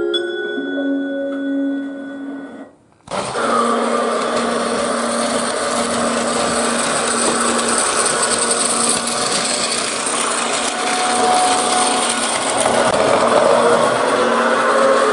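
Piano music that cuts off, then, about three seconds in, a battery-powered Plarail toy train's small motor and gearbox starts whirring and rattling steadily, with a rising whine near the end.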